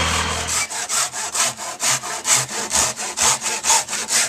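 A low, steady hum cuts off under a second in. Then comes a fast, even series of rasping strokes, about four a second, like a blade or rasp worked back and forth on wood.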